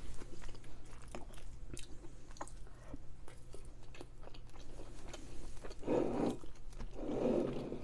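Close-miked chewing of creamy fettuccine Alfredo pasta, with many small wet mouth clicks and a couple of fuller mouthfuls near the end.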